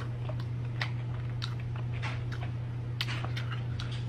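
Close-up chewing of cheese-dipped fried chicken: wet, crunchy mouth sounds with scattered short clicks.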